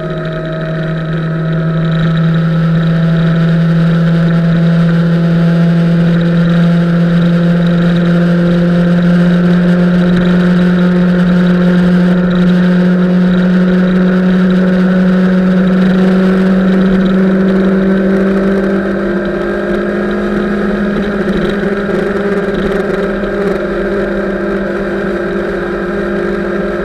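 Motorcycle engine running steadily at highway speed, its note climbing slowly across the whole stretch as the revs build.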